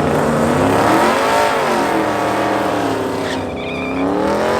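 Truck engine revving up and down at a drag strip, its pitch rising and falling twice. A brief high squeal comes partway through.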